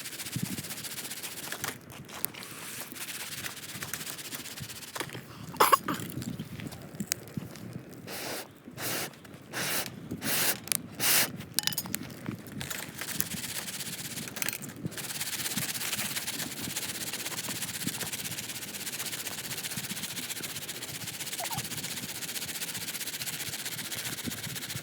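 Popcorn pan being shaken over a campfire: irregular knocking, rattling and scraping, heaviest about 5 to 15 seconds in, then a steady hiss from the fire and heating pan.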